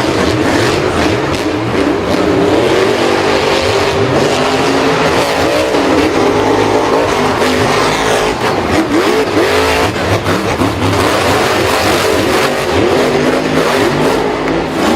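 Vehicle engines revving, several at once, their pitch rising and falling continuously.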